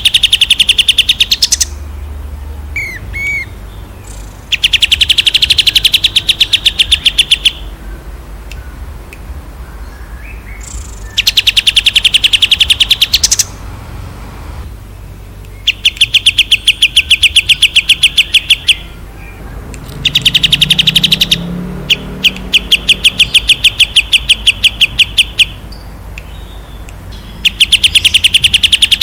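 Songbird singing in repeated bouts of fast, rapid-fire high notes. Each burst lasts two to four seconds, about six times over, with short pauses between them.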